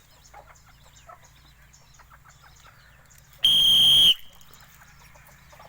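One short, steady blast on a whistle about three and a half seconds in, sounded as the signal that calls the cattle in.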